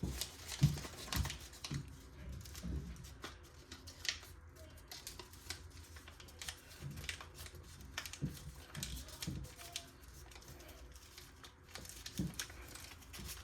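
Origami paper being folded and creased by hand: irregular crinkles, rustles and small clicks with soft low knocks, the loudest about half a second in.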